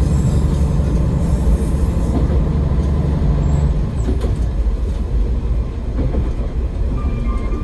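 AN-8800 diesel railcar running along the track: a steady low rumble of engine and wheels. The engine note drops back about halfway through, and a few sharp rail-joint clicks come a little after.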